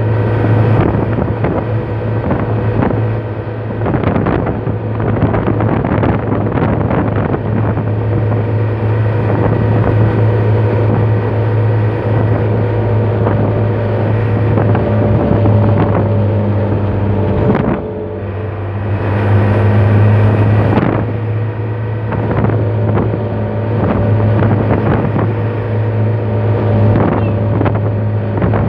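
A truck's engine running steadily on the move, with frequent knocks and rattles. About 18 seconds in it drops briefly, then comes back louder for a couple of seconds.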